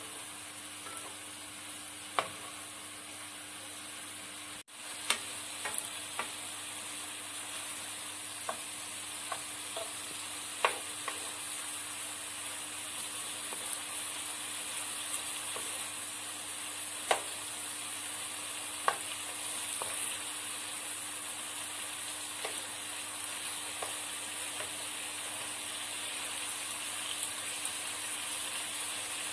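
Chicken pieces in a green yogurt-and-herb marinade sizzling in oil in a nonstick frying pan, a steady hiss, with a utensil scraping and clicking against the pan now and then as the pieces are turned.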